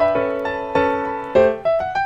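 Background piano music: gentle notes and chords, several struck each second.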